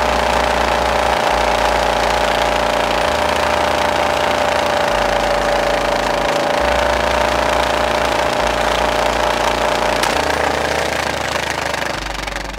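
Royal Enfield Bullet's single-cylinder engine idling steadily, its exhaust blowing into a balloon taped over the silencer. About ten seconds in there is a short pop as the balloon bursts, and the sound fades near the end.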